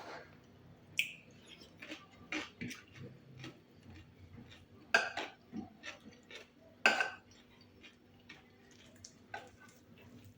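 Eating utensils clinking and scraping against a plate in a series of sharp clicks. The loudest clinks come about five and seven seconds in.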